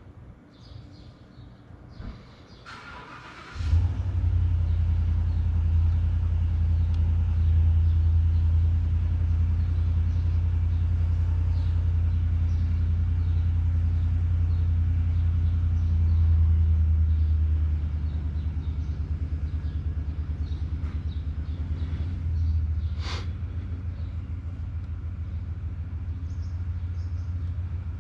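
An engine starts about three and a half seconds in and runs steadily with a low hum, dropping a little in level later on, with a brief sharp click or clank about twenty-three seconds in.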